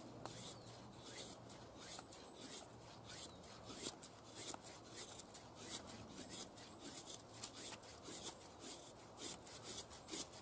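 Scandi-grind bushcraft knife shaving curls off a feather stick: quiet, repeated short scraping strokes of the blade along the wood, several a second.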